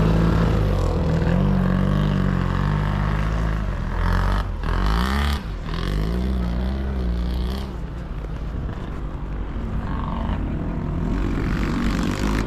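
Sidecar motocross motorcycle engines racing, revving up and down with the throttle so the pitch keeps rising and falling. The loudest stretch comes about four to five seconds in.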